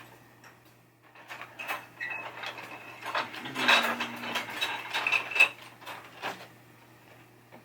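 Pieces of broken pinball playfield plastic clattering and scraping as they are rummaged through by hand, a busy run of light clicks that is thickest in the middle, with a couple of brief squeaks of plastic rubbing on plastic.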